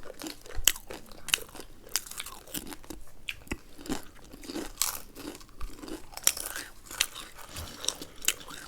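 Close-up crunching and chewing of Wai Wai sadeko, a dry, spiced instant-noodle snack, with many sharp crunches at irregular intervals.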